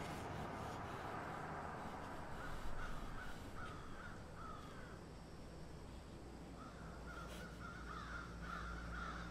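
Outdoor ambience with a bird giving short repeated calls, a handful about three to five seconds in and a longer run near the end, over a steady low rumble.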